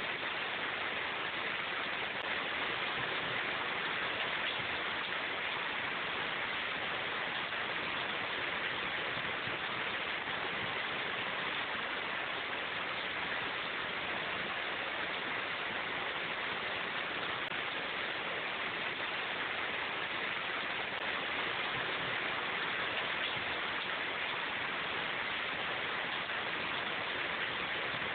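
Steady rain falling in a forest: an even, unbroken hiss with no single drops or other events standing out.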